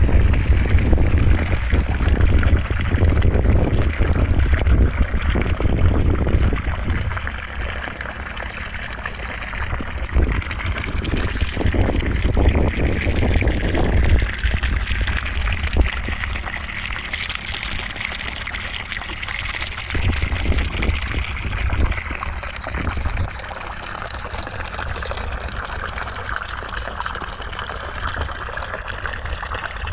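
Continuous rush of running water, a steady hiss with a deep rumble underneath that swells and eases several times.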